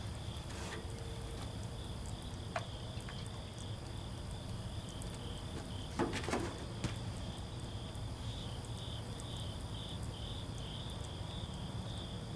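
Insects trilling steadily in a pulsing high chirr, with a few small clicks and a short clatter about six seconds in.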